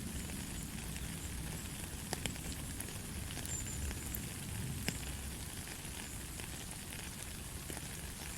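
Steady light rain falling, an even hiss with a low rumble beneath, broken by a few sharper drop ticks, the clearest about two seconds and about five seconds in.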